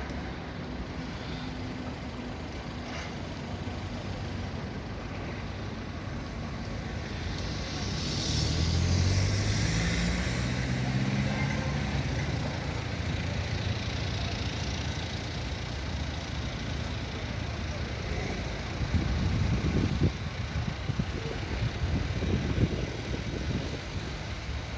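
Road traffic: a motor vehicle's engine swells as it passes about a third of the way in, over a steady background rumble. Wind buffets the microphone near the end.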